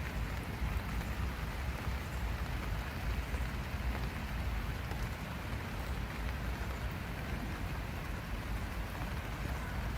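Steady rain falling, an even hiss of drops with a deep low rumble underneath.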